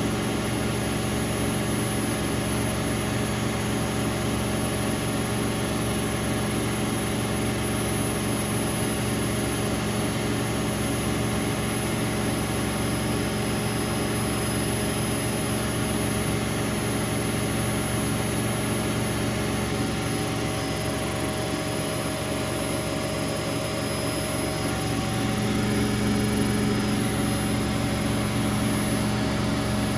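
Bauknecht WA Aquaton 1400 front-loading washing machine spinning, a steady motor hum and whine that grows a little louder about 25 seconds in.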